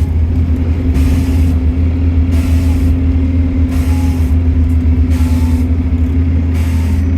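Stagecoach London bus 36651 running, heard from inside: a steady low engine drone with a constant hum above it, and a short burst of hiss about every one and a half seconds.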